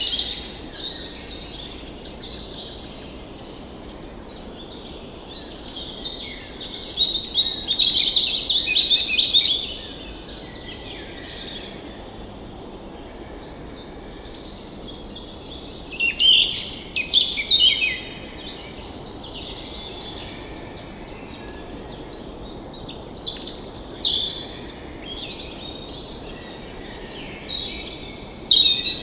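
Songbirds singing and chirping in repeated bouts over the steady rush of a forest stream.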